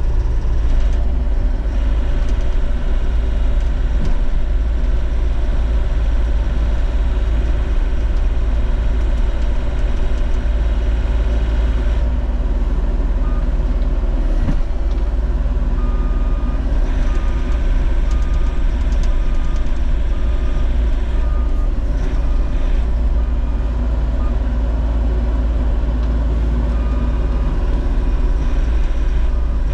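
Diesel engine of a Bobcat E50 compact excavator running steadily while the machine is driven, with a deep rumble. From about halfway through, its travel alarm beeps in a steady series of short beeps.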